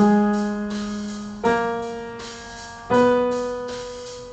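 Three single notes struck on a piano, about a second and a half apart, each left to ring and fade. It is a short listen-and-play-back ear-training pattern in F sharp major, starting on G sharp.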